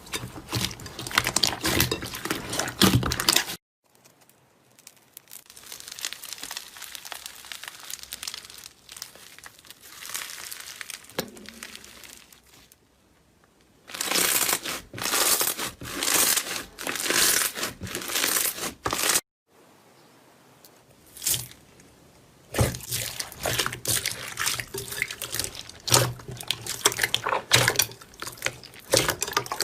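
Slime being squeezed and pulled by hand: dense runs of wet squishing, crackling and popping clicks. It comes in several short segments that start and stop abruptly, with quieter, softer handling between the loud stretches.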